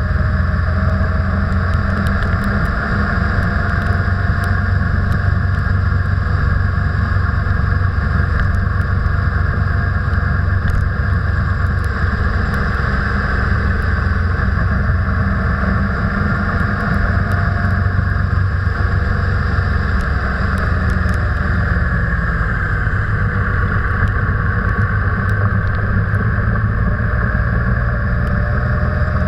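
A vehicle's engine and road noise while driving: a steady low rumble with the engine pitch drifting slowly up and down, and scattered faint ticks.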